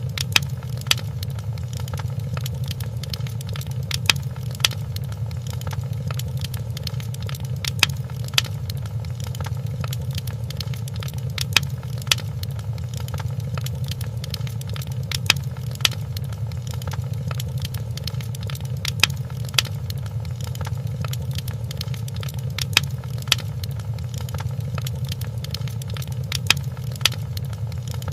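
Wood fire crackling in a fireplace over a steady low rumble, with a pair of louder pops recurring at even intervals of about every four seconds.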